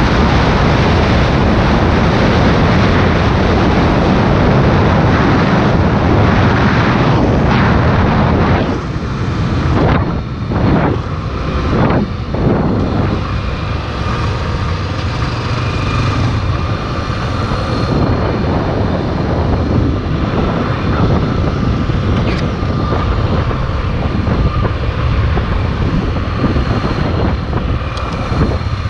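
Honda Tornado 250 single-cylinder motorcycle engine running on the road, with heavy wind rush over the microphone. About nine seconds in the wind noise eases and the engine's steady hum comes through more clearly.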